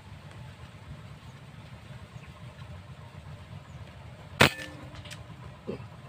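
A single sharp air rifle shot about four and a half seconds in, followed by a fainter knock about a second later, over a steady low background rumble.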